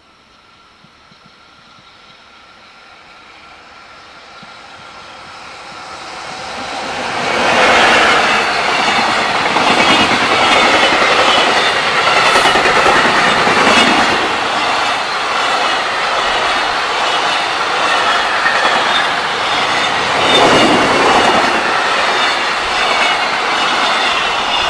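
JR Freight container train approaching, growing steadily louder until it passes close about 7 seconds in, then its long line of Koki container wagons rolling by with continuous wheel-on-rail rumble and clatter. The noise swells again about 20 seconds in.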